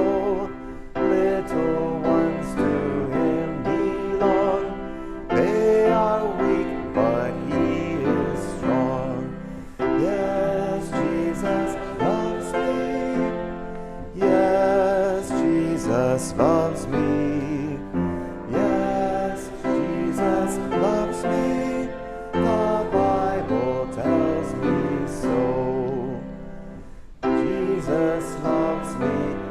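Piano with a solo voice singing over it, slow phrases and held notes with vibrato, pausing briefly between phrases.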